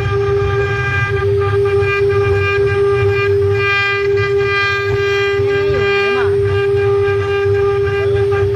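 CNC stone router's spindle running at a steady, unchanging whine over a low rumble while it cuts stone.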